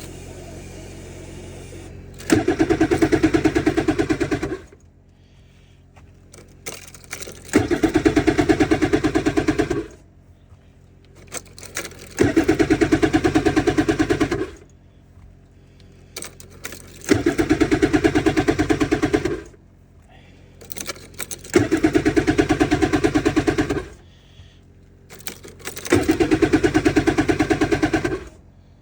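A 2026 Ski-Doo MXZ Neo+ snowmobile engine being cranked in six bursts of about two seconds each, a few seconds apart, without catching. It is a cold no-start at −6 °F.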